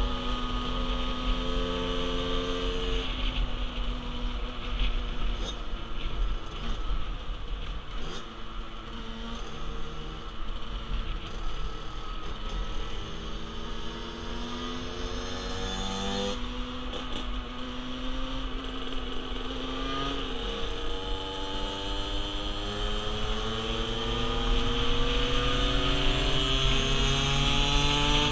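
A 50cc motorcycle engine running on the move, its pitch climbing slowly and then dropping off sharply a few times, over a steady rush of wind on the microphone.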